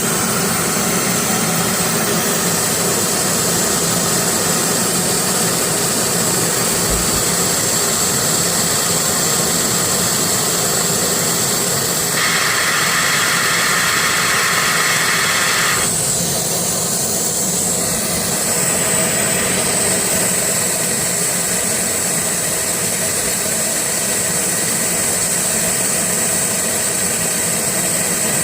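Fiber laser machine running while it drills a hole through mirror glass: a steady machine noise with a high, steady whine over it. A brighter hiss joins for about four seconds about halfway through, then drops away.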